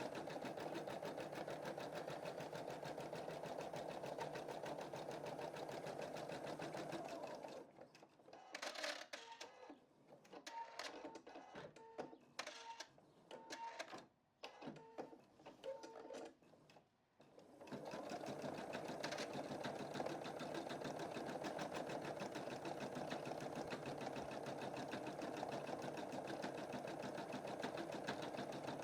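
Computerized embroidery machine stitching with a fast, steady needle rhythm. About a third of the way in the stitching stops for roughly ten seconds, leaving scattered clicks and short chirps from the machine, then the stitching starts again.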